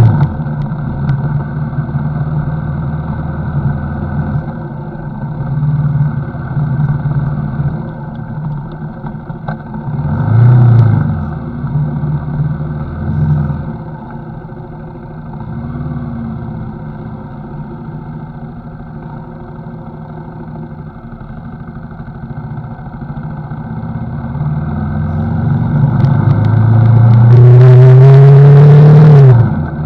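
CFMoto NK motorcycle engine on the road. It revs up briefly about ten seconds in, runs quieter and steady through the middle, then climbs in pitch for several seconds near the end before dropping off sharply as the throttle closes or the next gear goes in.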